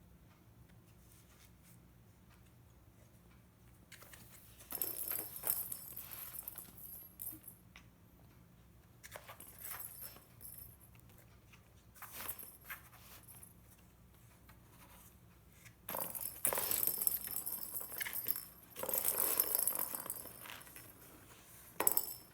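A cat playing with a new toy, giving irregular bursts of rattling and rustling that come and go every few seconds.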